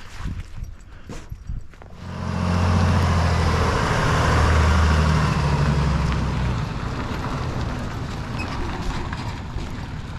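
A motor vehicle's engine running close by. It comes in suddenly about two seconds in, is loudest in the middle, and eases off toward the end, after a few light knocks and footsteps.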